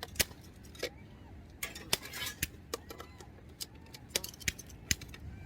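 Scattered sharp clicks and light knocks of small hard objects being handled, about a dozen at uneven intervals, typical of cookware and utensils being set down and moved.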